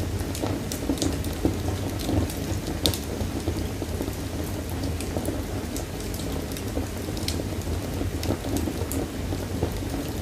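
Wood fire crackling: irregular sharp pops and snaps over a steady low rumble of burning flames, with a louder snap about three seconds in.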